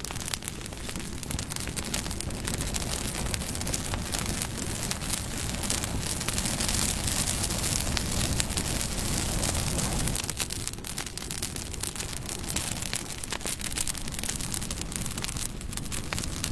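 Campfire burning, a steady rushing hiss of flames with many small crackles and pops from the burning wood, swelling a little in the middle.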